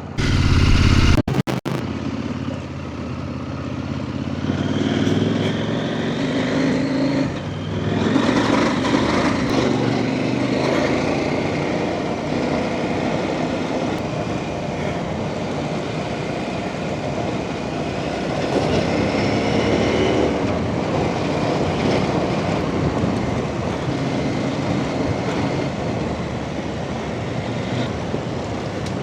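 Off-road trail motorcycle engine running under way, its pitch rising and falling several times as the throttle is opened and closed. A loud low rumble in the first second breaks off with a brief dropout.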